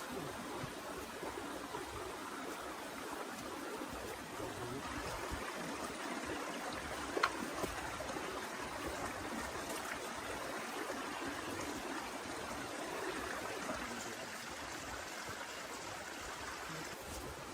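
Steady rushing of water, with a single sharp click about seven seconds in.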